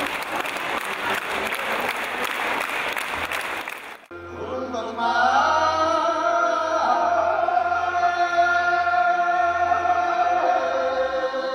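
Applause, then about four seconds in an abrupt cut to Mongolian khoomei throat singing: long held notes with a steady low drone beneath them.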